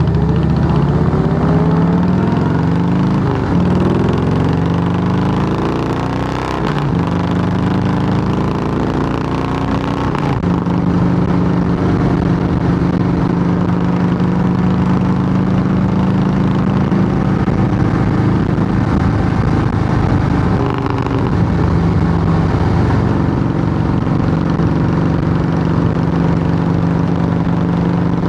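2008 Harley-Davidson Softail Heritage Classic's air-cooled V-twin running loud through Samson fishtail true-dual exhaust pipes. The engine pitch rises and falls over the first few seconds, dips briefly about six seconds in, then holds steady.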